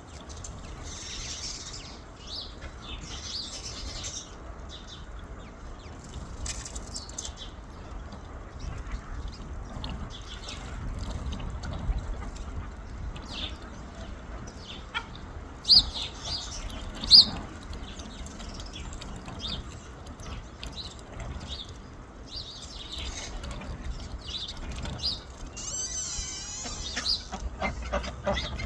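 Birds chirping and calling in short, scattered notes, with two louder sharp calls about halfway through and a warbling call near the end, over a low steady rumble.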